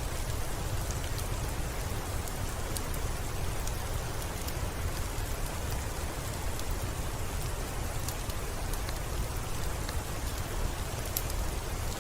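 Steady rainfall: a dense, even hiss over a low rumble, with scattered sharp little ticks.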